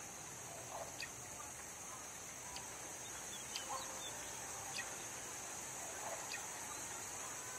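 Birds calling faintly: short chirps and calls recurring every second or so, some sliding down in pitch, over a steady high hiss.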